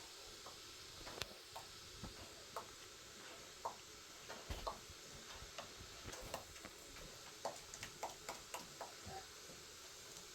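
Faint, irregular small clicks and light knocks, some two a second at most and unevenly spaced, over a steady hiss.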